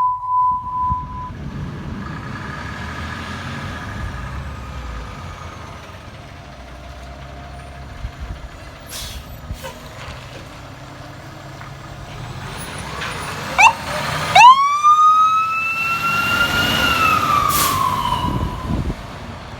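Fire engine running as it pulls out on an emergency call, with a steady beep at the start that stops about a second in. About thirteen seconds in, its siren gives a quick chirp, then winds up sharply, holds a rising wail and winds down near the end.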